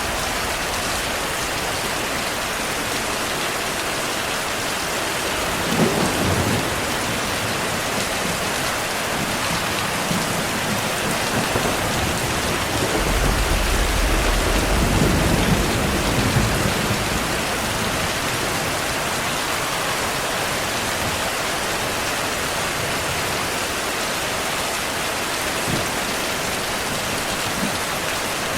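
Heavy rain falling steadily. Thunder cracks about six seconds in, and a longer deep roll of thunder rumbles a little before halfway.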